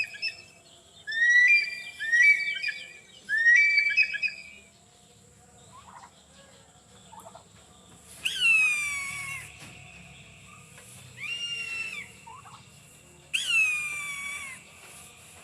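Eagle calling: three short, quick calls in the first few seconds, then long calls that fall in pitch about 8 seconds in and again about 13 seconds in, with a fainter call between them.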